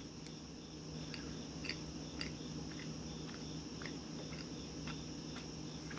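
Faint chewing of a soft baked oat bar, with scattered small mouth clicks.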